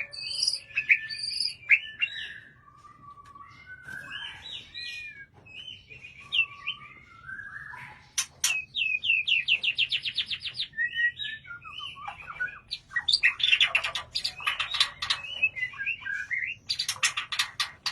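A white-rumped shama (murai batu) singing a long, varied song of whistled phrases that bend up and down, with quick runs of rapidly repeated notes in the second half.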